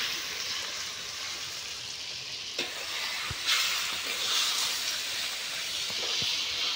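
Raw chicken pieces sizzling and frying in hot oil with onion, tomato and potato in a blackened kadai, stirred with a ladle. A steady sizzle is broken by a few sharp knocks and scrapes of the ladle against the pan.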